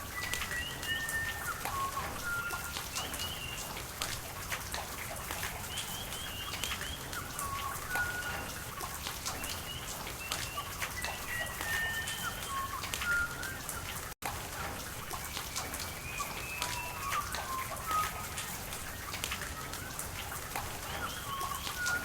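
Rain falling, with individual drops landing close by over a steady hiss of running water, while birds call throughout in short whistled chirps and slides. The sound drops out for an instant about fourteen seconds in.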